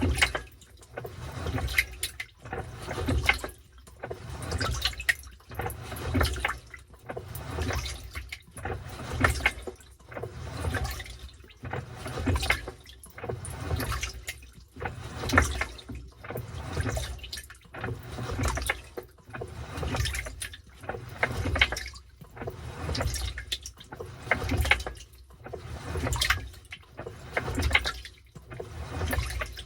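Washing machine tumbling a load in water, the water sloshing and splashing in a steady rhythm of about one surge a second.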